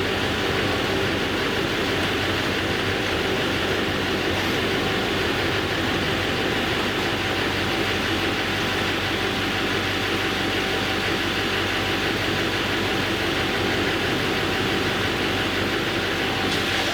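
A vehicle's engine running steadily, a constant drone with a few unchanging hum tones over a wash of noise.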